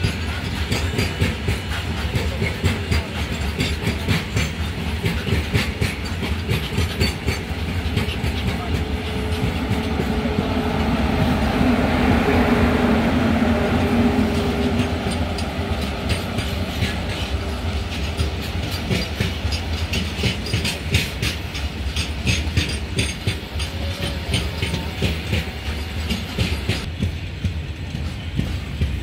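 Long freight train of covered wagons passing close by, wheels clicking steadily over the rail joints. About ten to fifteen seconds in, a WAG-9HC electric locomotive in the middle of the train goes past, adding a louder steady hum that swells and fades.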